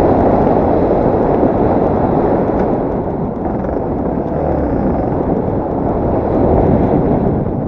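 Yamaha TT250R single-cylinder four-stroke enduro motorcycle running while riding, buried in heavy wind rush on the microphone.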